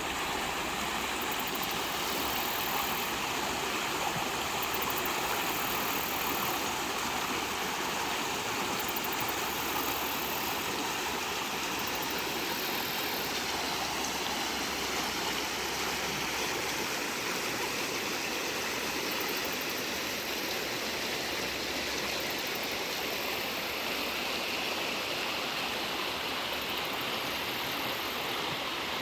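Brook babbling: shallow water rushing and gurgling over stones.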